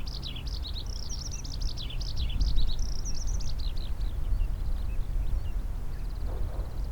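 A small songbird singing a quick run of varied high chirps for about three seconds, then trailing off, over a steady low rumble. Near the end a faint, fast, high trill starts.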